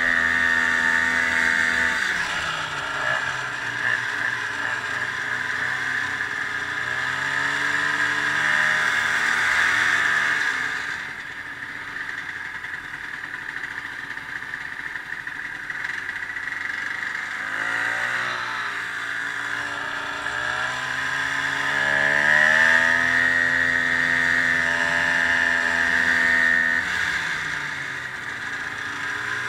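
Ski-Doo snowmobile engine running on the move, its pitch falling and rising several times as the rider eases off and speeds up again, over a steady high whine.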